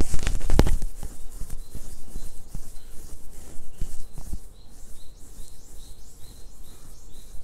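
A small bird chirping over and over in short, evenly spaced notes. There is a brief loud burst of noise with a few knocks in the first second.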